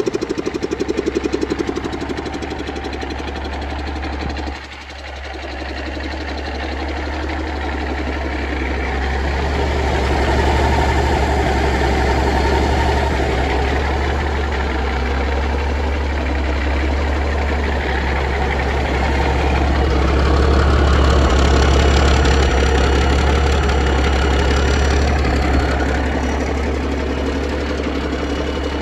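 Cummins NTC-300 855 cubic inch Big Cam III turbo diesel engine running on a test stand. A little over four seconds in its sound dips sharply, then builds back up over several seconds and holds steady, a little louder in the last third.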